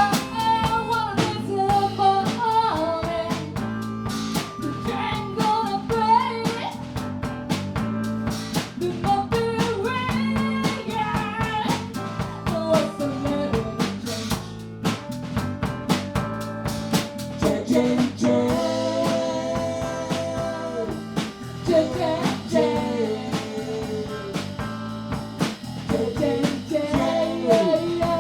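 Live blues band playing: drum kit and bass under a lead melody with held and bent notes.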